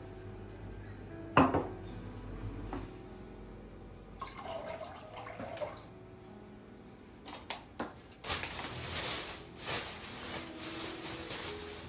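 Kitchen work at a sink: a sharp clink of a dish or utensil, a brief splash a few seconds later, two small knocks, then water from a tap running and splashing for the last few seconds.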